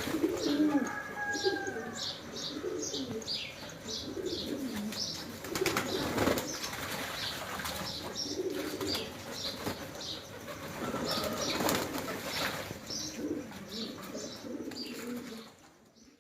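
Pigeons cooing in an aviary, with many short high chirps from smaller birds and scattered wing flaps. The sound fades out near the end.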